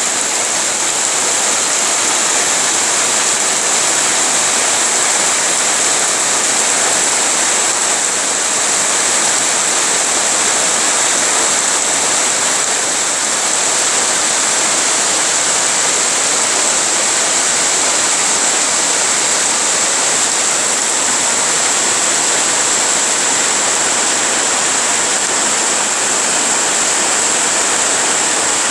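Heavy rain falling steadily: an even, unbroken hiss with no single drops standing out.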